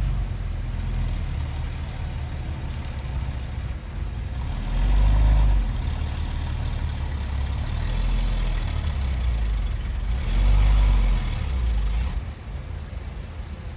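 Heavy diesel engine of earthmoving machinery running, with its revs rising and falling back three times, about five, eight and ten seconds in. It drops to a lower level near the end.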